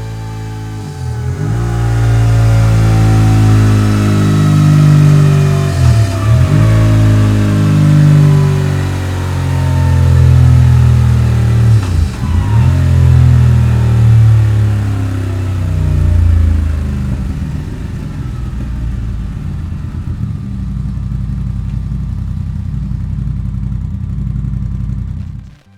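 Voge DS 625 X motorcycle engine breathing through a Scorpion stainless slip-on exhaust, run hard on a dynamometer. Three brief dips in pitch come about five to six seconds apart, then the engine settles to steadier, quieter running, and the sound cuts off at the end.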